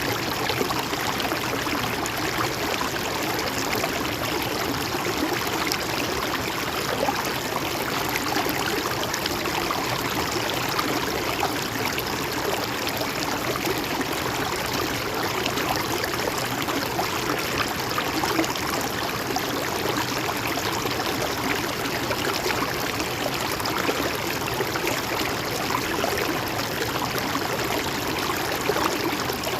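A stream flowing steadily, water rushing and trickling over rocks, with no pauses or changes.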